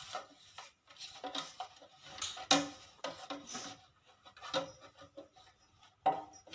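A cloth rubbing and wiping over plastic fridge parts in short, irregular strokes.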